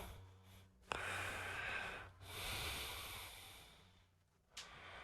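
A man breathing hard in recovery after a bench-press set taken to failure: two long, noisy breaths of about a second and a half each.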